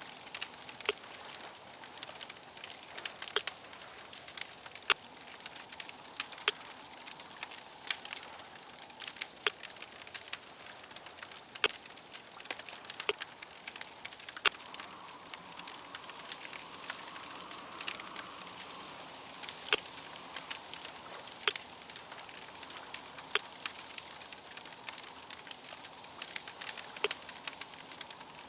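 Wood fire crackling: a steady hiss with frequent, irregular sharp pops and snaps.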